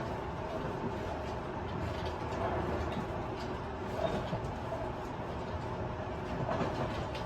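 Tobu 50090 series electric train heard from inside a motor car while running: a steady rumble of wheels on rail with a steady hum and scattered light clicks.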